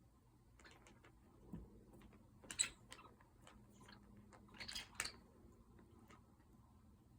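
Faint scattered clicks and rustling scuffs of a cat pawing and biting at a toy, louder twice, about two and a half and five seconds in.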